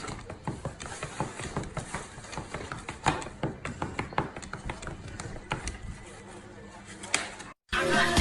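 A run of irregular small clicks and taps, cut off abruptly near the end.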